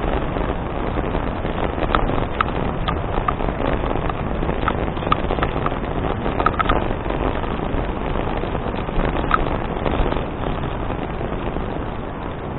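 Steady rush of wind and tyre noise from a bicycle on the move, with scattered light clicks and rattles at irregular moments.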